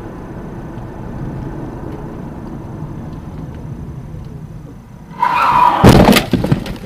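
Car driving with steady road and engine noise, then a brief high tyre squeal and a loud crash of impacts about six seconds in, the sound of a collision.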